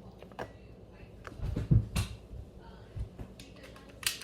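A few sharp clicks, one just after the start and a louder one near the end, with a dull thump in the middle.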